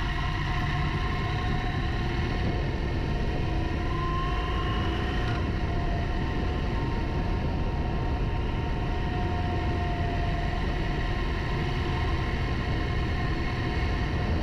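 Motorcycle engine running while riding, steady, mixed with wind and road noise, its pitch drifting slightly up and down.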